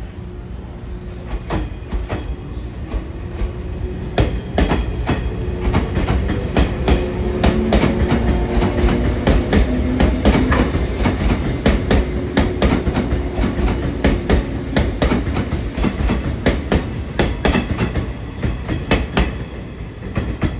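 JR East 185 series electric train pulling out and running close past: its wheels clack over rail joints and points, the clacks coming thick and fast over a low rumble as it gathers speed. A faint low hum rises a little in pitch partway through.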